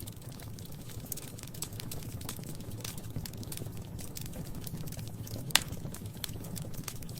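Wood fire crackling in a fireplace: scattered sharp snaps over a low steady rumble, with one loud pop about five and a half seconds in.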